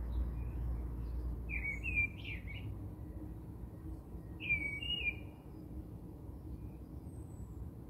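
A small bird chirping: a short run of quick chirps about a second and a half in and another near five seconds. A low rumble underneath stops about two seconds in.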